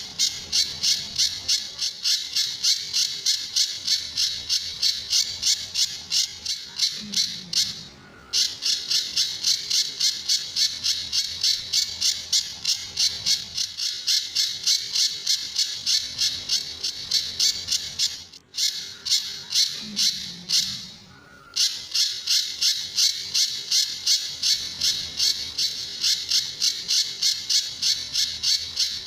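Pijantur bird calling in a fast, unbroken series of sharp, high-pitched repeated notes, about three a second, stopping briefly twice.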